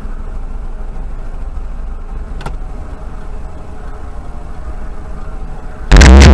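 Steady low rumble of a car's engine and road noise picked up by a dash camera, with a single faint click about two and a half seconds in. Loud electronic dance music cuts in abruptly near the end.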